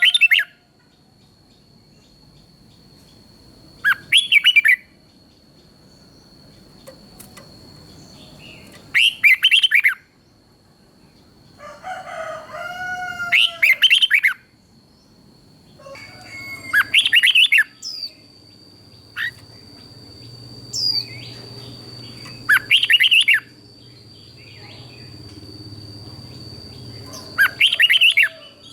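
Red-whiskered bulbul singing short, loud, warbling song phrases, one about every four to five seconds, with a steady high-pitched whine running underneath.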